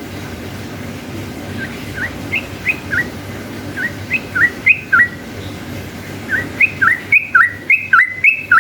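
Yellow-vented bulbul (trucukan) singing: three runs of short, quick whistled notes, the last run the loudest, over a low steady background hum.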